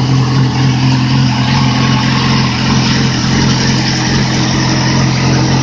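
2008 Yamaha R6 inline-four engine, out of the bike on a test stand with an aftermarket exhaust, running steadily as it warms up.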